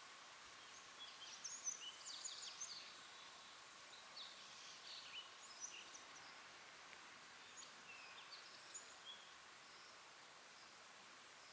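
Faint, scattered high chirps and short calls of small songbirds, busiest in the first half, over a steady low hiss of outdoor background noise.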